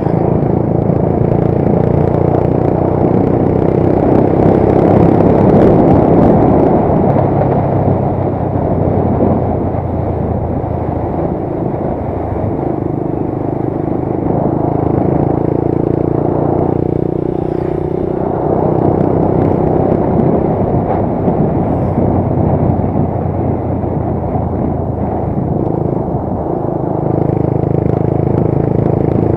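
Motorcycle engine running under way with wind and road noise, the engine note easing off and picking up again a few times as speed changes.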